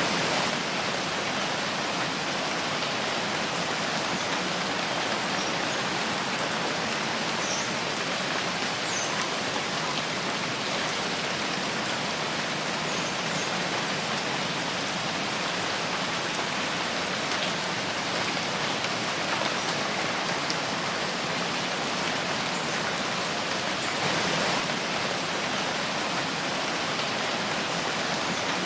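Steady rain falling in a forest, a dense even patter of drops with no let-up. A few faint high ticks come through here and there, and the rain swells briefly about 24 seconds in.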